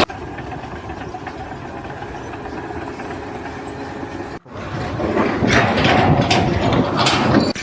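An engine running, in two stretches split by a sudden cut a little past halfway; the second stretch is louder, with a few knocks.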